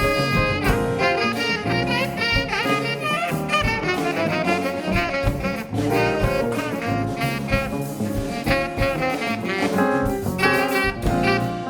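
Live band playing upbeat jazz, with horn melody lines over a steady drum beat.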